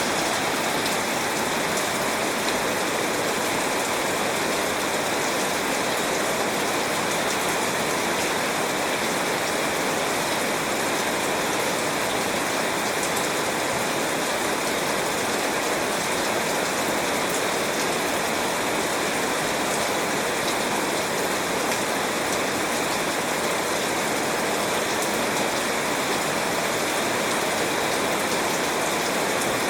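Steady heavy rain, an even unbroken hiss with fine patter of drops, holding the same level throughout.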